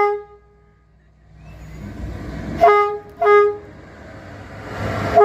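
Horn of the electric locomotive EA 899-7 sounding two short blasts about three seconds in, just after the tail of a longer blast dies away at the start. A low rumble swells near the end.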